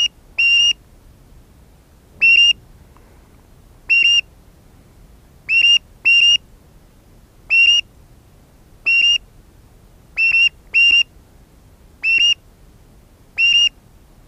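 A high whistle blown in short, steady blasts, about a dozen of them, roughly one every second and a half and sometimes in quick pairs.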